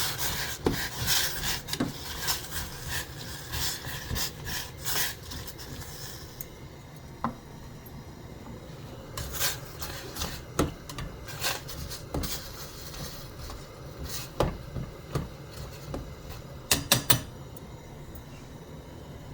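Kitchen work with utensils and dishes: irregular clatter, knocks and scrapes, busiest in the first few seconds and with a quick run of sharp clinks near the end, over a steady low hum.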